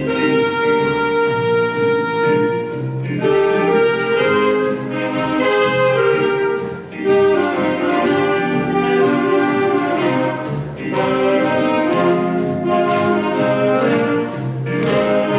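A group of saxophones playing a slow melody in long, held notes over an orchestral-style accompaniment.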